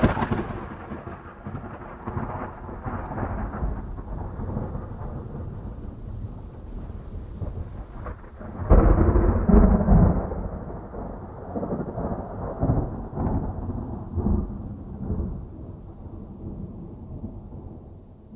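Thunder rolling and rumbling during a rainstorm: a clap just before the start dies away into rumbling, a second loud peal breaks about nine seconds in, and it rolls on, fading toward the end, over steady rain.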